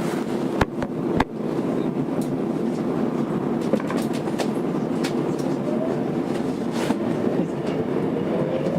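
Interior sound of a Tokyo Metro 02 series subway car with IGBT inverter drive, a steady rumble with two sharp knocks about half a second apart near the start. Near the end a rising whine sets in from the traction inverter and motors as the train begins to accelerate.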